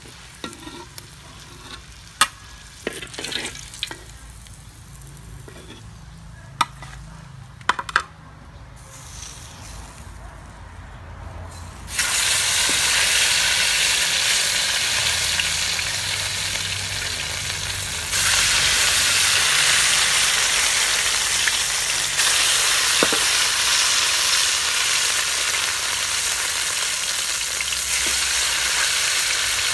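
Fish frying in a pan of hot oil: faint crackling with scattered sharp pops at first, then partway through a loud, steady sizzle starts suddenly and soon steps up louder again.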